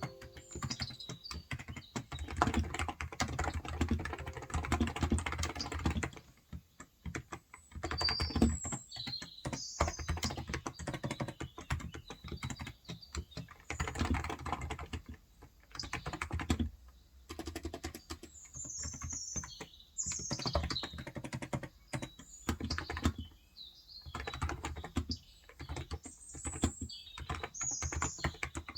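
Typing on a Cox Endeavor electro-capacitive keyboard with 35 g switches: a dense patter of keystrokes in bursts with brief pauses. Birds chirp now and then in the background.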